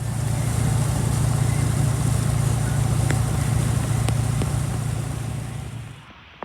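A vehicle engine running steadily under a loud rushing noise, starting abruptly and cutting off about six seconds in.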